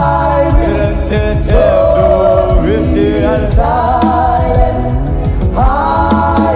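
Gospel worship music: sung voices holding long, wavering notes that slide between pitches over a steady low instrumental backing.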